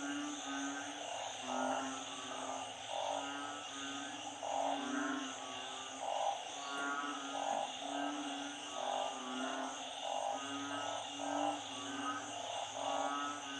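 A dense chorus of narrow-mouthed frogs (อึ่ง) and small frogs (เขียด) calling over and over, low hooting calls overlapping with higher ones about once or twice a second, over a steady high buzz. The breeding chorus that rises after a storm floods the ground.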